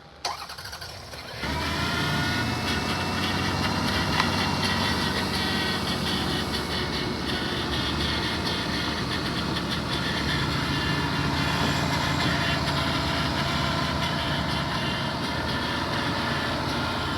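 Toyota 3.0-litre V6 (Avalon 1MZ-FE), freshly swapped into a Camry, starting about a second and a half in and then idling steadily.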